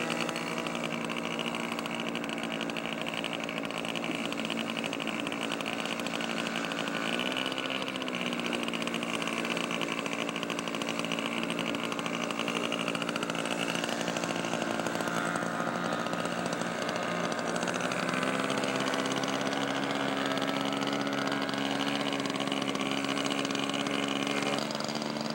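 Radio-control model airplane's two-stroke glow engine running steadily, its pitch shifting a couple of times, about 7 seconds in and again near 18 seconds, as the throttle changes.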